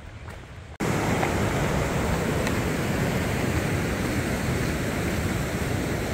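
Fast-flowing mountain creek rushing loudly and steadily, coming in suddenly under a second in after a few light knocks.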